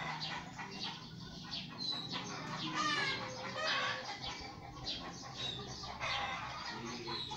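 Birds calling: a busy run of short chirps and clucks overlapping one another, thickest a couple of seconds in.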